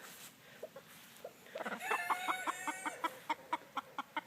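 A rooster crows once, a call about a second and a half long starting a little before halfway through, with short soft chicken clucks before and after it.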